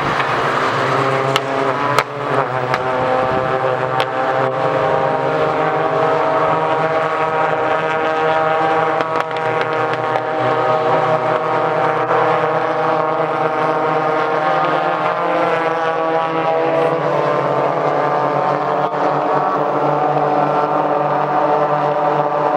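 Race car engines holding a steady, even drone, with a few sharp clicks about a second and a half to two seconds in.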